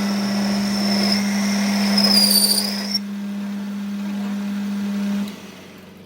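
A workshop machine motor running with a steady hum, a high-pitched whine from the work sagging in pitch and cutting off about three seconds in. The motor then winds down about five seconds in.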